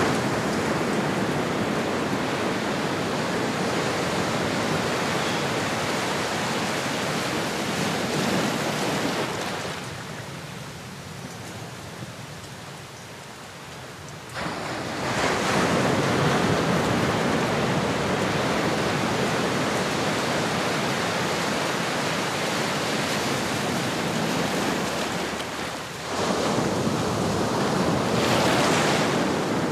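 Ocean waves breaking and washing up a shore, surging and ebbing: a quieter lull about a third of the way in, then a new wave rushes in about halfway, with another near the end.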